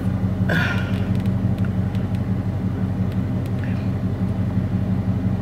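Car engine idling, heard from inside the cabin as a steady low hum, with one short higher-pitched squeak about half a second in.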